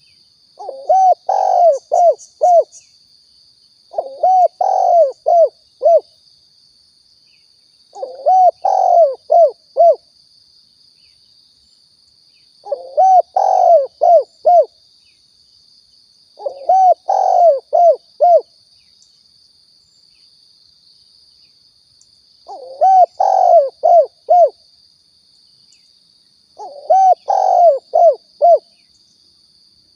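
Spotted dove (tekukur) cooing: seven phrases of several quick coos each, about one phrase every four seconds, as a lure-call recording. A steady faint high whine sounds behind.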